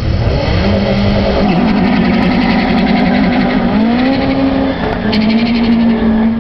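Peugeot 205 Rallye with a touring-car-spec engine accelerating hard down the drag strip. Its engine note climbs, drops back once about five seconds in at a gear change, then climbs again.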